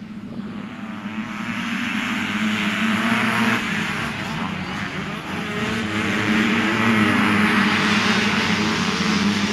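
85cc two-stroke motocross bike engine running hard at high revs. It builds in loudness over the first couple of seconds, then stays loud.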